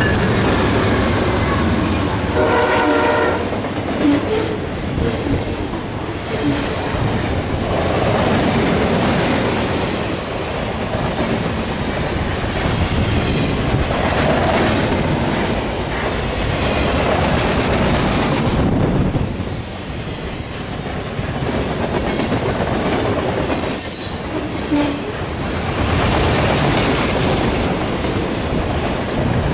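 Freight train rolling past with its wheels clattering steadily over the rails. A single horn blast sounds about two seconds in, and there is a brief high wheel screech near the end.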